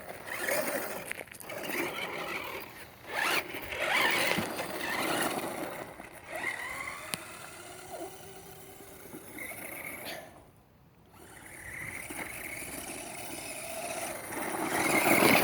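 Remote-control truck's small electric motor whirring and revving in bursts, pitch rising and falling, as it scrabbles over rough ground. It cuts out briefly about two thirds of the way through, then starts again and gets louder near the end.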